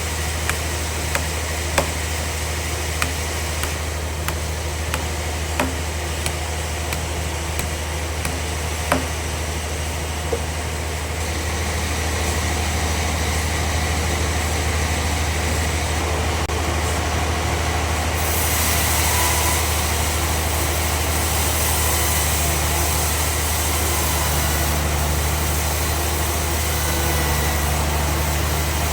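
Sawmill bandsaw machinery running with a steady low hum, with scattered sharp clicks in the first several seconds. About twelve seconds in the noise grows louder and fuller, and from about eighteen seconds a strong high hiss is added.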